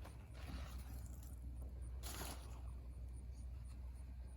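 Faint rustling and scraping of plant packaging being handled and unwrapped, with one brief louder rustle about two seconds in, over a steady low hum.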